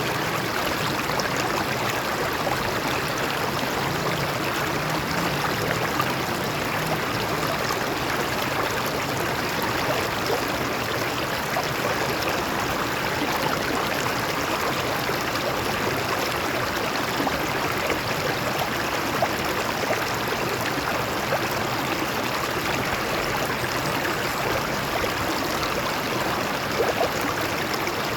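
Stream water flowing over rocks, a steady even rush with fine splashing and trickling.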